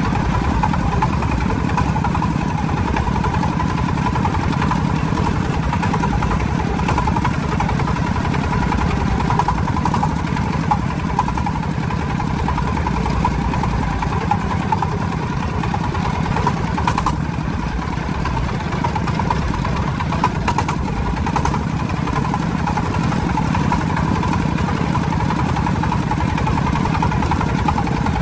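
Loaded logging truck's engine running steadily as the truck drives along, with a few brief knocks about two-thirds of the way through.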